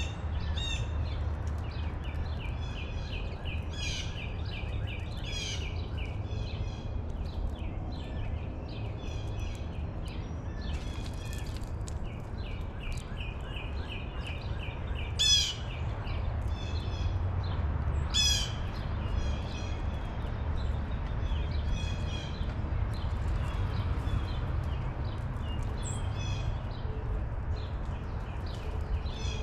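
Small birds chirping and calling almost without pause, with two louder, sharper calls a few seconds apart about halfway through, over a steady low rumble.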